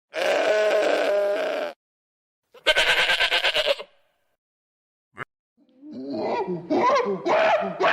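Sheep bleating: two separate calls, the second with a quick wavering flutter. Then, from about six seconds in, a busy run of shorter calls that bend up and down in pitch.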